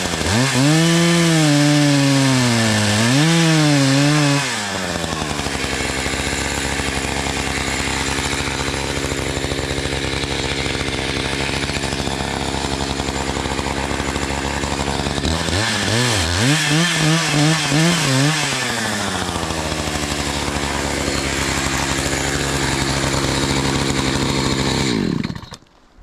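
Gas chainsaw revving hard in two spells, pitch swinging up and down as it works, settling to a steady idle in between, then shut off a second or so before the end.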